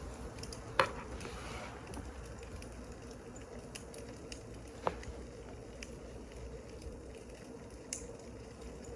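Wood fire crackling: a steady soft hiss with a few sharp pops of burning logs, the loudest about a second in and others near five and eight seconds.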